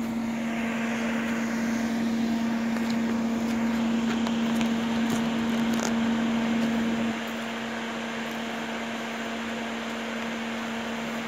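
Thermal Arc 400 GMS welder switched on but not welding: its cooling fan runs with a steady hum. The hum's tone drops out about seven seconds in while the fan noise carries on.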